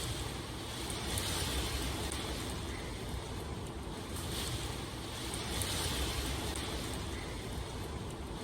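Steady rain: a constant hiss over a low rumble, the hiss swelling and easing every few seconds.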